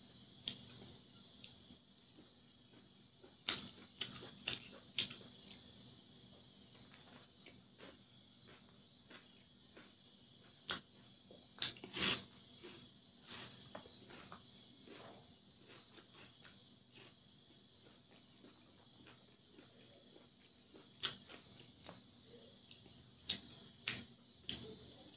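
Eating sounds of a person eating rice and curry by hand: scattered wet chewing smacks and clicks of food and fingers, a few louder than the rest, over a steady high-pitched chirring in the background.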